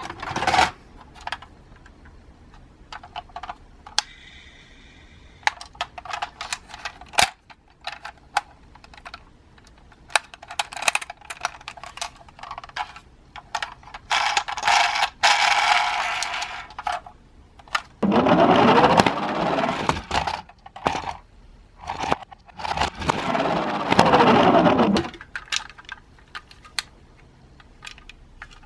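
Toy minicars clicking and clattering on a hard plastic course, with scattered sharp knocks. Three longer stretches of rolling noise, about halfway through and twice near the end, are the cars running along the track; the last two rise and fall in pitch.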